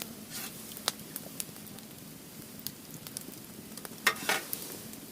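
Firewood burning in a fire pit: a steady hiss of crackling with scattered sharp pops, the loudest pair about four seconds in.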